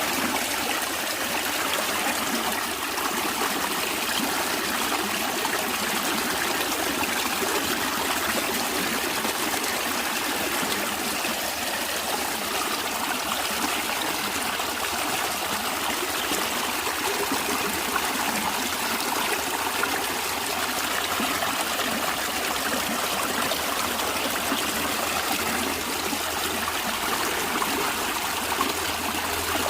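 Natural stream running steadily, with a constant trickling and babbling of water over rocks.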